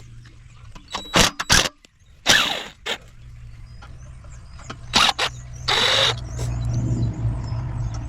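Dismantling work on a floor scrubber: a few sharp metal knocks and clanks and two short scraping bursts from tools on its parts, over a low steady rumble.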